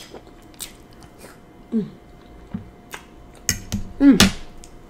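Close-miked chewing of a mouthful of food: scattered sharp wet mouth clicks and lip smacks. There is a short voice sound about two seconds in and a louder one just after four seconds.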